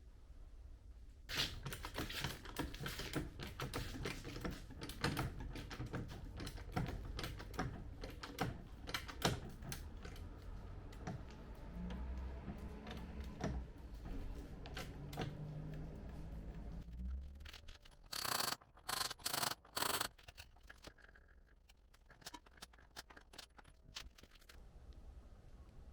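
Rapid, irregular clicking and tapping, then four short, loud bursts of noise in quick succession, then a few faint clicks.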